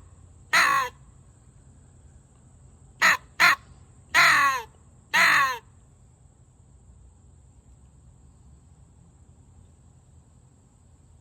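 Hand-blown crow call sounding a crow food call: a long caw, then a set of two quick caws and two long caws.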